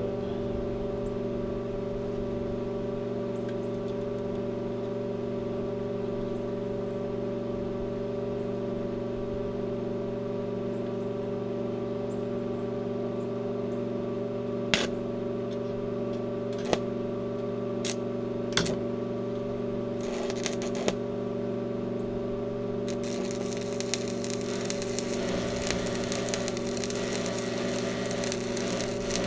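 Steady machine hum with a few sharp clicks. About two-thirds of the way through, the crackle of an electric welding arc starts up as hooks are welded onto the tractor's counterweight carrier.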